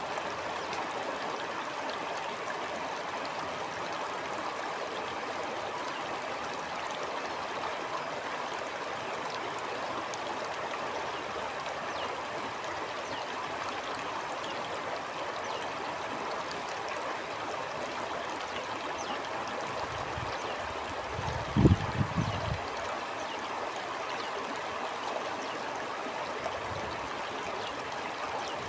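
Shallow stream flowing steadily, a continuous rushing and trickling of water. About three-quarters of the way through, a short low rumble and thump rises above the water.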